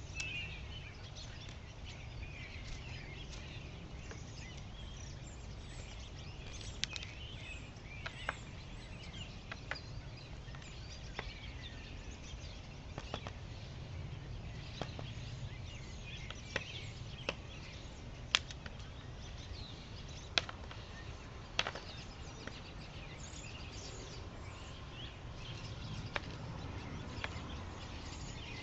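Small birds chirping and twittering on and off, with scattered sharp ticks and taps, over a steady low background rumble.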